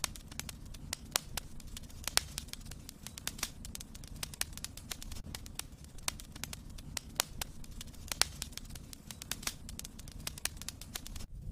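Wood fire crackling in a fireplace: irregular sharp snaps over the low, steady noise of the flames, with a brief drop-out just before the end.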